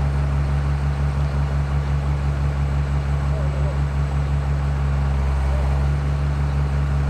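Excavator's diesel engine running steadily at a constant speed, a low, even drone.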